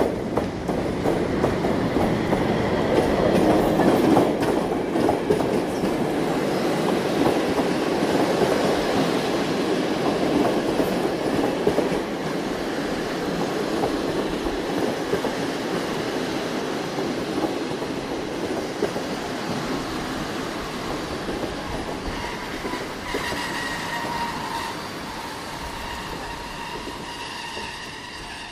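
Train running on rails: a dense rumble and clatter of wheels, loudest a few seconds in and then slowly fading. Near the end, faint steady high tones creep in.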